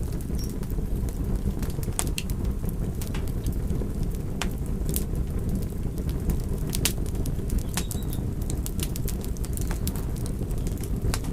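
Fire crackling: a steady low roar with frequent sharp, irregular pops and snaps.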